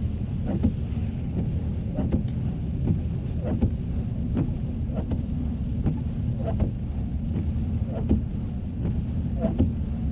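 Car driving on a snowy road, heard from inside the cabin: a steady low rumble with short soft knocks repeating about every three-quarters of a second.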